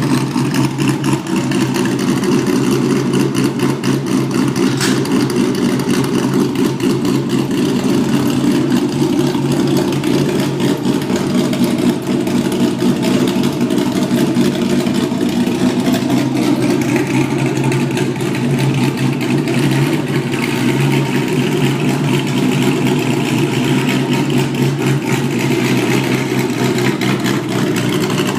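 Porsche Boxster's swapped-in 6.2-litre GM LS3 V8 running on open pipes with the mufflers removed: a loud, deep, steady exhaust note that swells a little past the middle.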